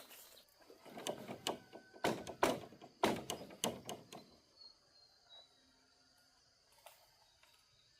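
A quick run of hard knocks and clatters, like wood or bamboo being handled, over about three seconds. Then a quiet stretch with a faint steady high tone and one more knock.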